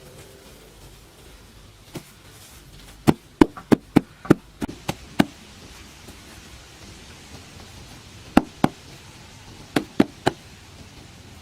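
Sharp knocks struck by hand in irregular runs: one, then a quick run of about nine, then two, then three near the end.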